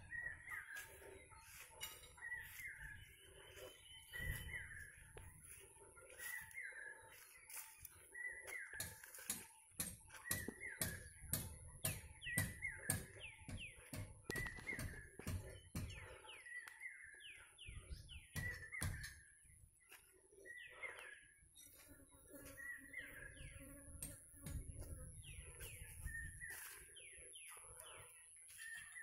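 Birds chirping in the surrounding scrub, one call repeating about once a second, with quick falling chirps joining in the second half over a steady high thin tone. Low rumbling bumps on the microphone come and go, heaviest in the middle.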